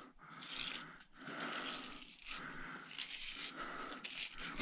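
Scraping and crinkling handling noise as copper is worked free of a salvaged appliance part, coming in irregular pulses about a second apart.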